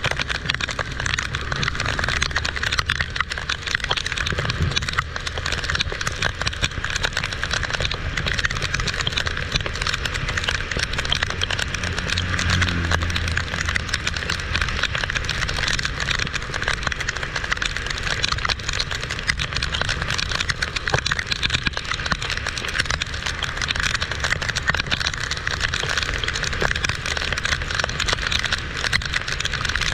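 Heavy tropical rain pouring down, a dense steady hiss crackling with drops striking. A low rumble runs underneath and swells briefly about twelve seconds in.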